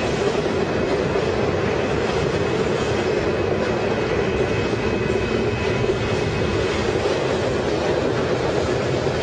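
Double-stack container freight train rolling past, a steady, unbroken noise of wheels running on the rails.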